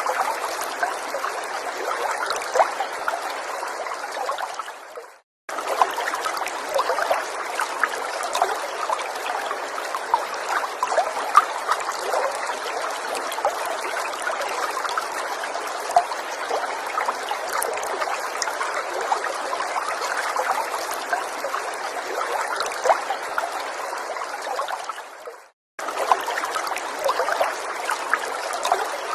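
Small forest stream trickling and babbling steadily, with many small droplet and bubble ticks. It fades out to a moment of silence twice, about five seconds in and again near the end, and comes straight back each time.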